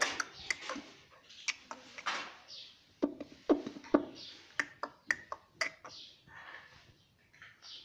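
Indian ringneck parrot making a string of sharp clicks and short soft chattering sounds.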